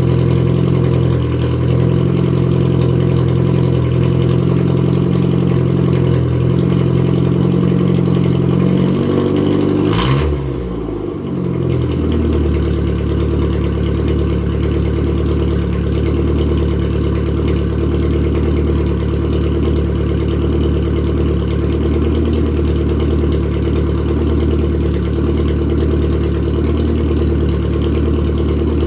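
Datsun 1000's 1-litre A10 four-cylinder idling loudly through a straight-piped exhaust while warming up. About ten seconds in there is a brief click, the idle speed sinks over a couple of seconds, and it then runs on steadily at a lower idle.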